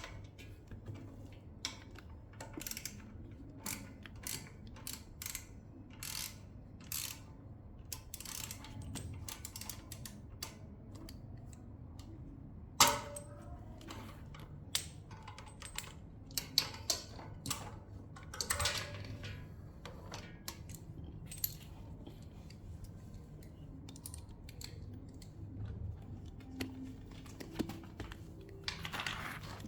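Irregular clicks, taps and knocks of hand tools and small metal parts being handled while an e-bike's front hydraulic disc brake is being changed, with one sharp knock about thirteen seconds in.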